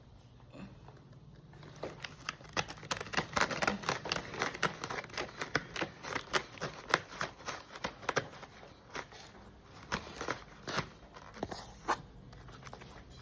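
Cat raking its claws on a scratcher: a run of quick, irregular scratchy strokes that starts about two seconds in and thins out near the end.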